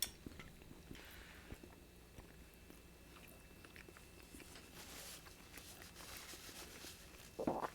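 A man chewing food quietly close to the microphone, with small wet mouth clicks scattered through. There is a sharp click right at the start.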